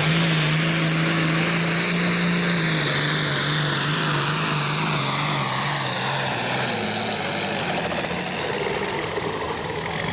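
Turbocharged diesel pulling tractor at full throttle dragging the weight sled, the engine note and a high turbo whine falling steadily as the sled's load builds and the tractor slows. The sound eases off slightly near the end.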